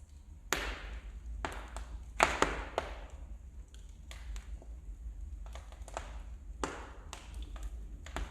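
Wood fire burning in a fireplace: irregular sharp crackles and pops from the burning logs, a few louder snaps among many small ticks, over a low steady rumble.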